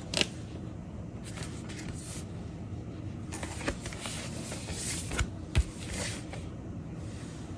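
Hands handling a vinyl record and its packaging: bursts of rustling and scraping, a sharp click just after the start, and two soft thumps about five seconds in.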